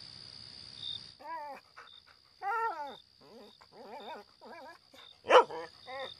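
A dog whining in a series of short, high, wavering whimpers, with one louder, sharper yelp about five seconds in, over the steady high chirring of crickets.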